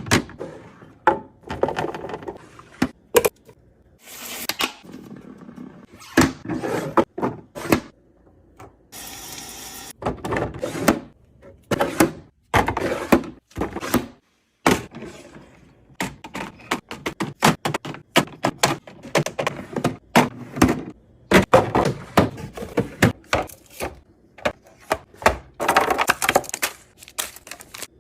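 Containers and jars being handled and set down: a long, irregular run of short clicks, knocks and clinks.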